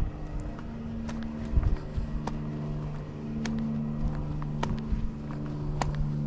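Footsteps going down a flight of beach steps, sharp separate steps about once a second, over a steady low motor hum like an idling vehicle.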